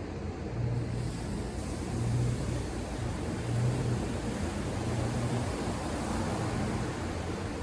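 Steady wash of ocean surf with a low, uneven rumble underneath.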